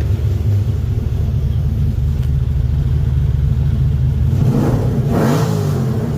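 Chevrolet LS3 6.2-litre V8 in a Porsche 996, idling steadily, then revved about four and a half seconds in, its pitch climbing and falling back, with another rev starting at the very end.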